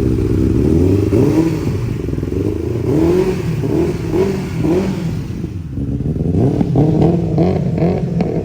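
Benelli 600 superbike's inline-four engine running, revved in a series of short throttle blips, each a quick rise and fall in pitch, bunched about three seconds in and again near the end.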